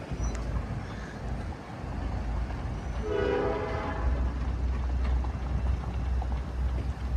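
A single short blast of the CN 1501 Budd RDC rail car's horn about three seconds in, a warning to a person crossing the track. It sounds over a steady low rumble that grows stronger just after the blast.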